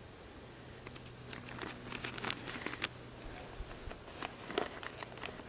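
Paper coffee filter crinkling and crackling as it is handled and fitted into a coffee filter holder: a run of small, uneven crackles.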